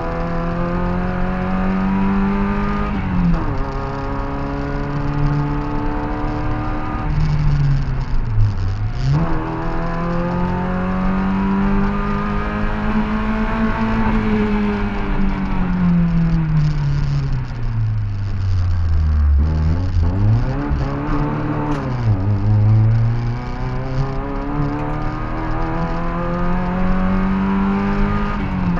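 Opel Manta B's four-cylinder engine heard from inside the cabin, driven hard uphill: the revs climb and fall again and again, dropping sharply several times and sinking slowly to a low point about two-thirds through before rising once more.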